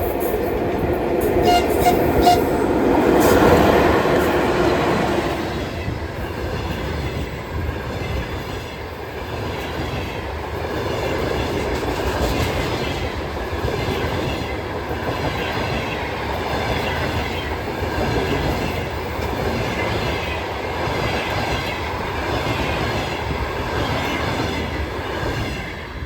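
ChS7 electric locomotive passing at the head of a passenger train, loudest about three to four seconds in. The coaches follow with a steady rumble and wheel clatter on the rail joints, which falls away near the end.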